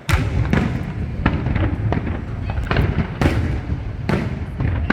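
Aerial fireworks going off in a rapid string of sharp bangs and booms, several a second, over a steady low rumble of echoing blasts.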